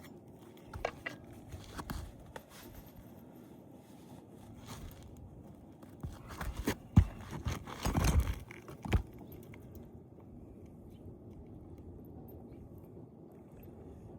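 Hand work on an asphalt-shingle roof: scattered knocks and scraping of tools on shingles, loudest in a cluster about 6 to 9 seconds in, then only faint background noise.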